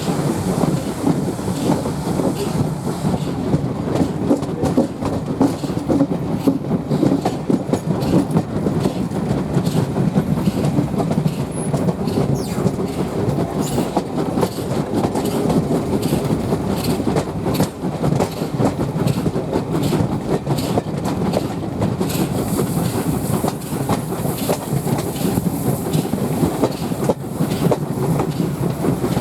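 Steam-hauled passenger train running along the track, heard from aboard a carriage: a steady rumble with wheels clicking over the rail joints. A hiss comes in near the end.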